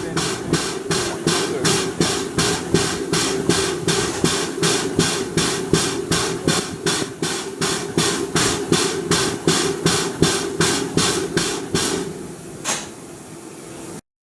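Ivatt Class 2MT 2-6-2T tank engine No. 41313 working steam, its exhaust beating evenly at about three beats a second. The beats stop about 12 s in, followed by one sharp burst and a quieter stretch before the sound cuts off.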